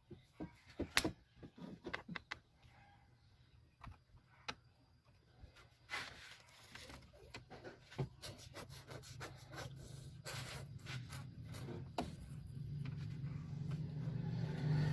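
Scattered clicks and knocks of hand work on the engine bay, then about eight seconds in a low steady hum of the Chevrolet Spark 1.0 engine running sets in and grows louder, after its spark plugs were replaced.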